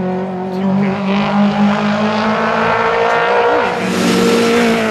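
Rally car engine running hard at high, fairly steady revs, with a brief rise and fall in pitch about three and a half seconds in and a rush of hiss joining it near the end.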